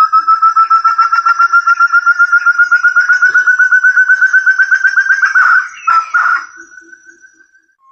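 Forest quail (puyuh hutan) call used as a bird lure: a rapid run of clear whistled notes, about ten a second, climbing slowly in pitch for about five seconds. It breaks into a couple of harsher notes, then trails off and fades.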